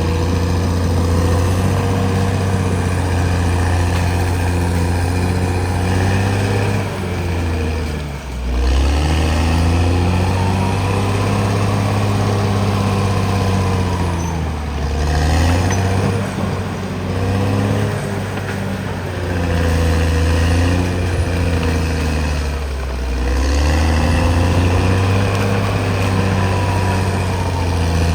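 Caterpillar D6R XL bulldozer's diesel engine working steadily, its pitch dipping and climbing back three times as the load on it changes.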